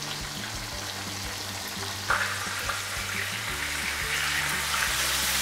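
A breaded cachopo frying in hot oil in a paella pan, a steady sizzle. It jumps louder about two seconds in and keeps growing toward the end.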